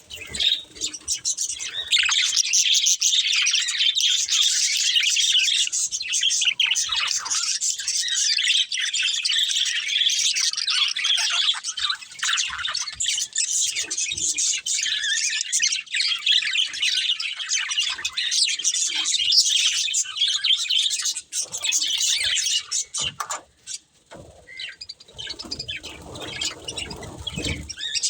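Budgerigars chirping and warbling in a fast, continuous chatter. Near the end the chatter thins out and a low rumble comes in under it.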